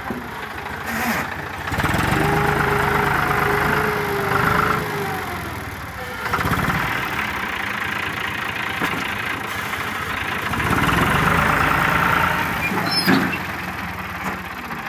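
Tractor engine running, its sound swelling and easing several times as the front loader works, with a brief sharp knock near the end.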